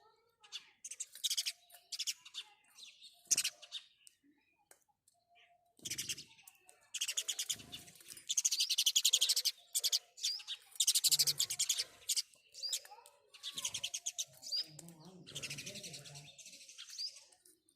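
House sparrows chirping in quick runs of repeated high chirps. The runs come in bursts of a second or two, with short pauses between them.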